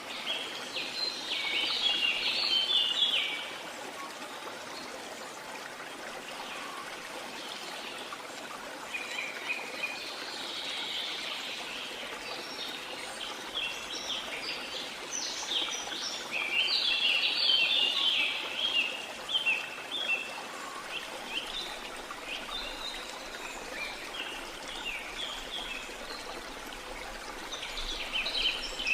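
Rainforest ambience: a steady hiss of rushing water or rain, with birds chattering in bouts of rapid short high notes that come and go several times.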